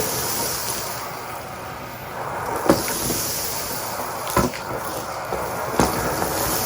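Henry canister vacuum cleaner running with a steady rushing hiss, with three sharp clicks about a second and a half apart in the second half.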